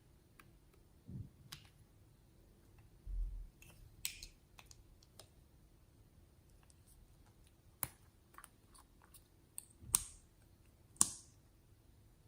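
Scattered sharp clicks and taps of small objects being handled, with a soft low thump about three seconds in and the loudest clicks near the end.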